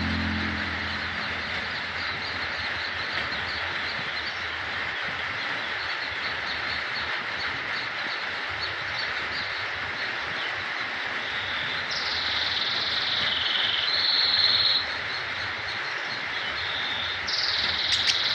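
A young brown-throated sunbird practising its song: a long run of fast, faint high chips, then high trilling phrases in the second half, over a steady background hiss.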